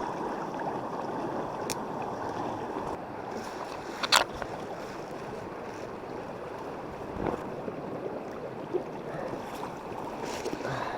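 Steady rush of flowing river water, with a sharp knock about four seconds in and a softer one about seven seconds in.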